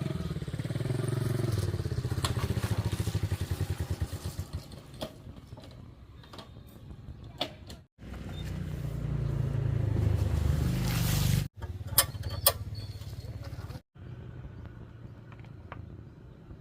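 Old kick-start motorbike engine running, its beat slowing and fading over the first few seconds; after a cut it runs again and rises in pitch. A few sharp clicks follow over a quieter background.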